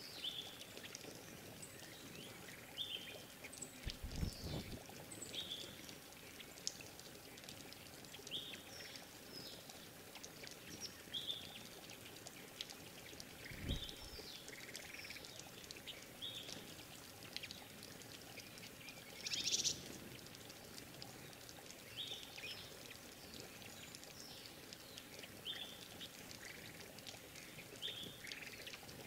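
Small forest birds at a drinking pool giving short, scattered chirps and calls, with one louder call or wing flutter a little after the middle. There are two brief low thumps, about four and fourteen seconds in.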